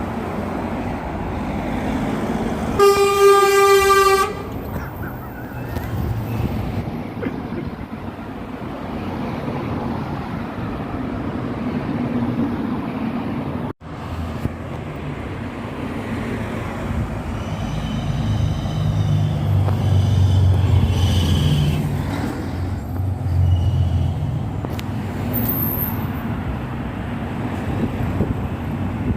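One horn blast lasting about a second and a half, a single steady note, over steady vehicle noise. Later a low engine rumble rises and falls, with a faint high whine.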